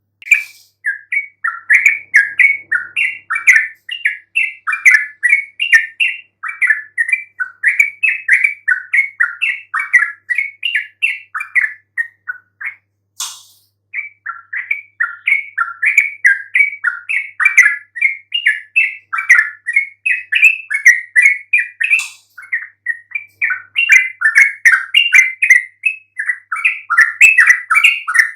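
Yellow-vented bulbul (trucukan) song: a long, fast, loud run of short chattering notes, with a break of about a second and a half near the middle that holds a single sharp click.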